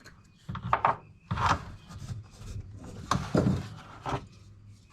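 Pieces of ripped-down 2x4 lumber being handled and fitted into the wooden microwave cabinet, scraping and knocking in a few short bursts.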